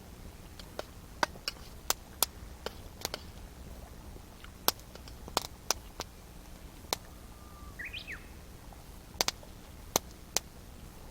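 Wood campfire crackling, with irregular sharp pops over a low steady background. A single short bird call comes about eight seconds in.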